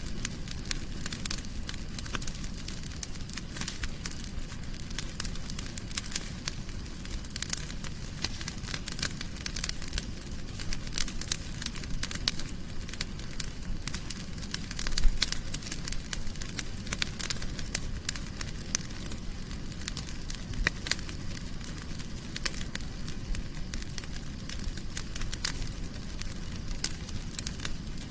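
Fire burning in a fireplace, crackling steadily: a dense run of sharp pops and snaps over the low rumble of the flames, with one louder pop about halfway through.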